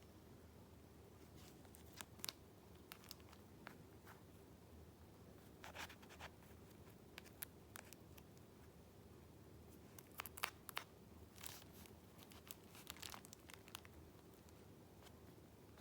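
Paper being handled: faint scattered rustles and crinkles of sheets and paper pieces being moved, in short clusters about six seconds in and again between ten and thirteen seconds, over faint room tone.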